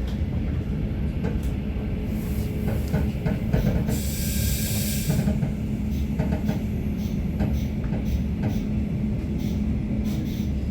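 Regional train running, heard from inside the carriage: a steady low rumble with scattered rail clicks, and a short hiss about four seconds in that lasts just over a second.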